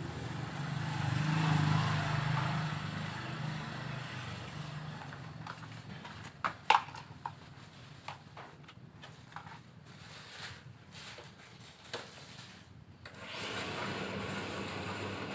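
A machine's motor hums, swelling over the first couple of seconds and then dying away. A run of scattered clicks and knocks follows, the loudest about a third of the way in. The hum starts again near the end.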